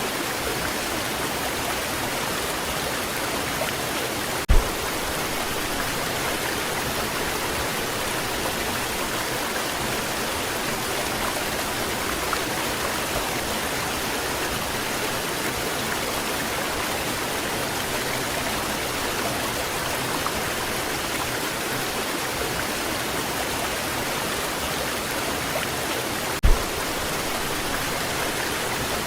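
Waterfall rushing in a steady, even roar of falling water. Two brief low thumps, about four seconds in and again near the end.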